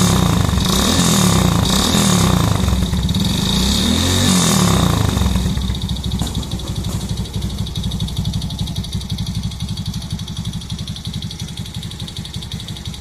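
Kawasaki Fury 125's single-cylinder four-stroke engine, bored up to 178cc with a Takegawa kit and breathing through a stock Suzuki Gixxer 155 muffler, revved in several quick throttle blips, then dropping back to a steady idle about five seconds in.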